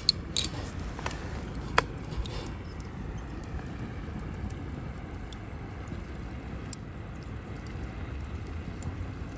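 Campfire crackling: a few sharp pops, most of them in the first two seconds, over a steady low rumble.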